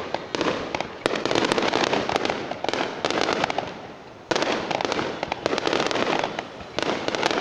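Fireworks going off: dense, rapid crackling in waves. Each wave starts suddenly and fades, with fresh bursts about a second in, again after about four seconds, and near the end.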